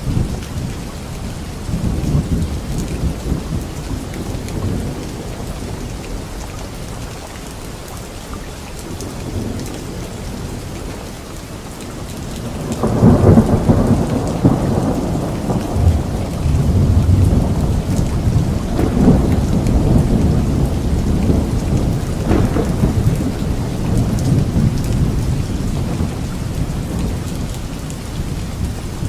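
Steady rain falling, with low thunder rumbling under it. About halfway through a loud thunderclap breaks and rolls on in waves for some ten seconds before easing back to the rain.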